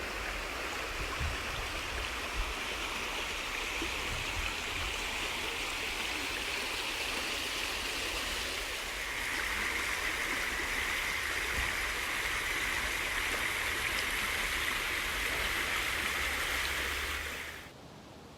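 Steady rush of running water, like a stream. It shifts slightly in tone about halfway and fades out quickly near the end.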